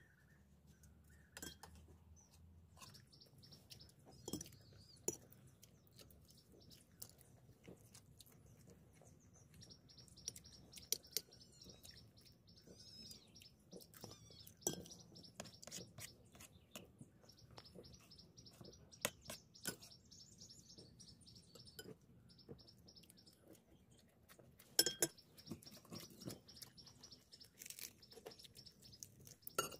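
Small birds chirping softly in the background, with scattered sharp clinks of spoons against plates and bowls as people eat. The loudest clinks come near the end.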